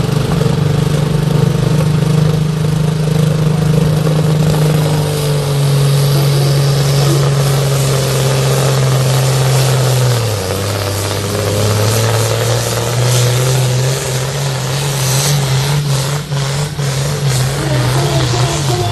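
Modified pulling tractor's engine at full throttle during a pull, dragging the weight sled. The engine note holds high, drops suddenly about halfway through, then climbs back up, with some crackling near the end.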